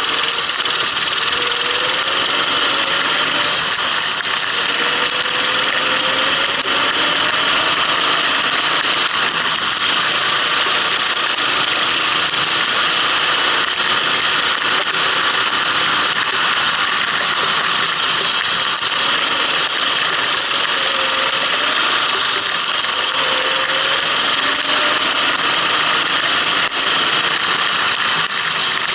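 Kart engine running on track, its pitch rising and falling with the throttle, over a steady noise of wind and tyres.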